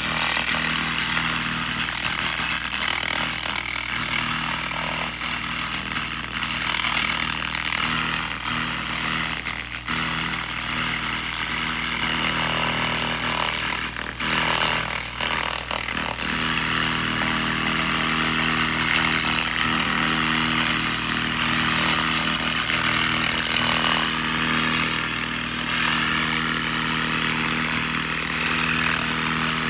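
SFX 2000 handheld laser rust remover at work: a steady machine hum with a dense, continuous hiss as the beam strips rust from metal, briefly dipping a few times.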